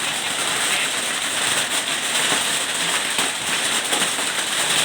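Hailstorm with heavy rain: a dense, continuous clatter of many small hailstone impacts over a steady rain hiss.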